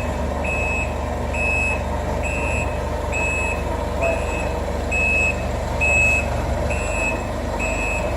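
Forklift reversing alarm beeping about once a second as the forklift backs up, over the steady low hum of its engine running.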